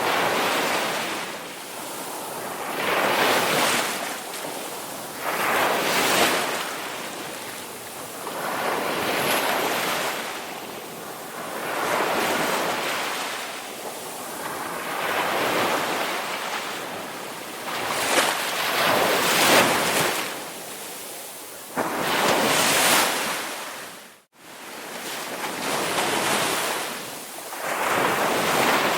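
Ocean waves breaking and washing up the shore, one surge after another about every three seconds. About three-quarters of the way through, the sound drops briefly to near silence before the waves resume.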